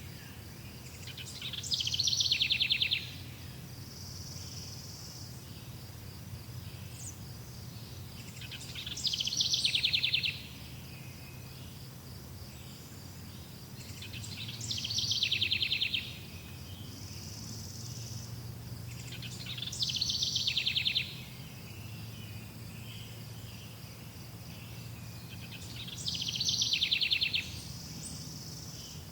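A songbird repeating the same short song five times, roughly every six seconds: a few high notes dropping into a fast trill about a second and a half long. Under it runs a steady high drone of insects, crickets.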